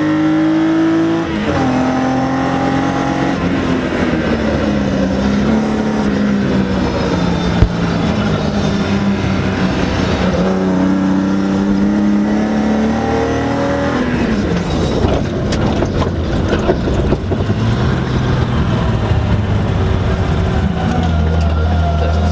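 BMW E30 rally car engine driven hard, pulling up through the revs and easing off, with the pitch dropping abruptly at gear changes. There is a single sharp bang about eight seconds in, and the engine settles to a lower, steadier note near the end.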